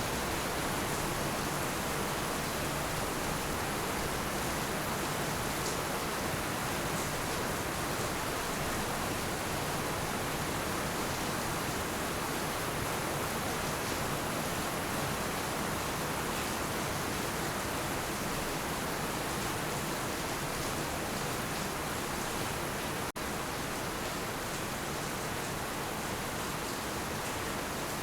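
Heavy rain falling steadily, a dense even hiss with no thunder, broken by a split-second dropout about three-quarters of the way through.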